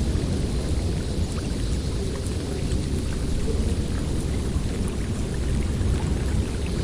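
Snowstorm wind blowing steadily and strongly, a deep, even noise with faint scattered ticks.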